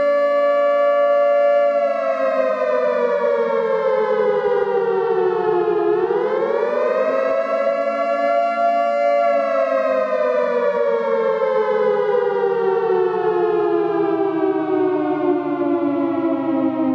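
Nuclear alarm siren wailing, sounding two pitches at once like a chord. It holds steady, slides down in pitch, swoops back up about six seconds in, then falls slowly again.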